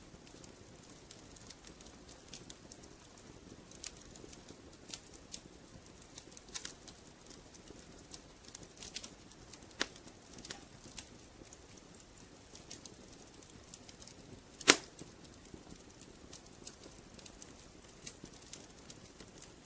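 Wood fire crackling in a fireplace: a soft steady hiss with scattered small snaps and one sharp, louder pop about three-quarters of the way through.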